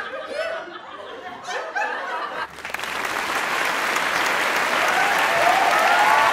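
Audience sound effect: a few chuckles and laughs, then applause breaking out about two and a half seconds in and building up.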